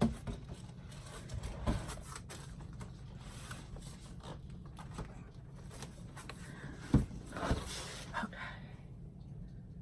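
Gesso container and painting tools handled on a work table: a few scattered knocks and rubs, the loudest about seven seconds in, over a steady low hum.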